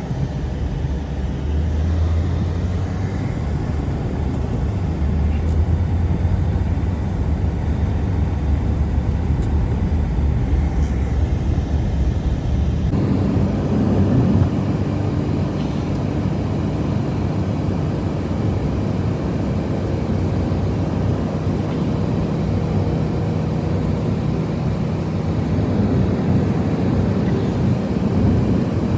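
Blizzard wind blowing steadily, a deep rumbling noise, with an abrupt change in its sound about thirteen seconds in.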